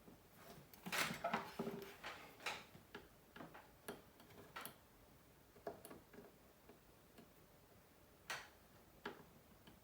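Light, irregular clicks and taps from small phone parts and tools being handled during a smartphone repair: a quick cluster in the first two seconds, then single clicks every second or so.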